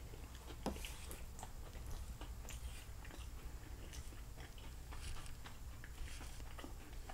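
Close-miked chewing and mouth sounds of a person eating, with faint clicks and scrapes of a wooden fork on the plate as leftover food is gathered.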